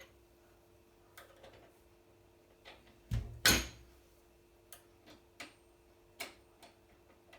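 Irregular clicks and metal clinks of a socket wrench being worked on a washing machine's transit bolt, with two louder knocks about three seconds in.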